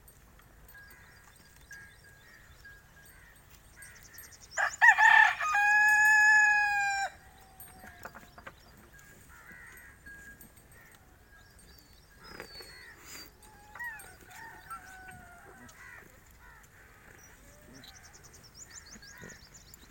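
A rooster crowing once, about five seconds in: a few broken notes, then a long held note that drops away at the end. Faint bird chirps come and go around it.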